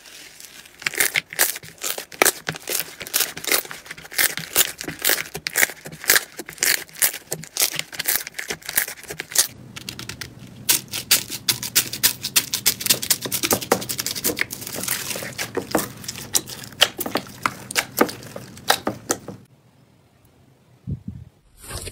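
Slime being squeezed and poked by hand, giving a rapid, irregular run of crisp crackling and popping clicks that stops about two and a half seconds before the end.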